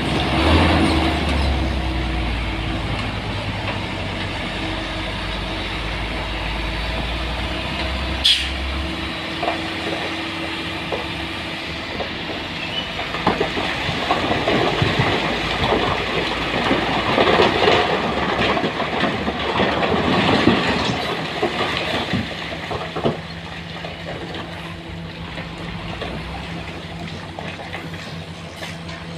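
Heavy truck engine running, with low steady tones, then rattling and clattering for several seconds, which then dies down to a steady hum.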